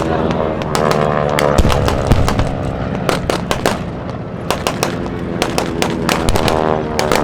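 Piston engine of a low-flying warbird, dropping in pitch near the end as it passes, amid dense, irregular sharp pops and bangs of simulated gunfire and pyrotechnic charges.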